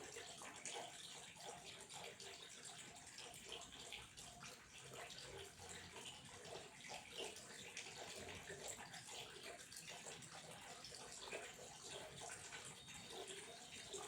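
Running water splashing and trickling steadily, with many small uneven spatters.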